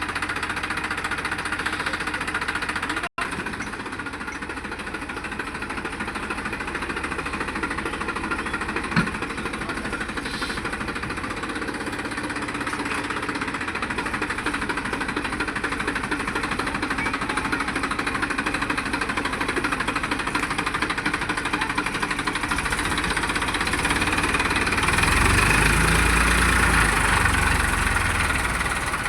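John Deere tractor's diesel engine running steadily while the tractor drives, with a brief cut-out about three seconds in and growing louder with a deeper rumble near the end.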